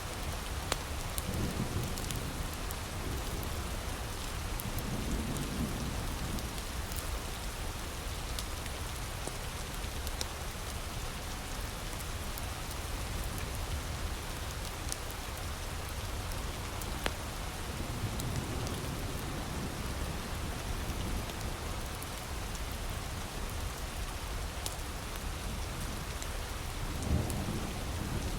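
Heavy rain falling steadily, with scattered sharp pops and crackles from a wood fire. A few low rumbles of thunder swell and fade.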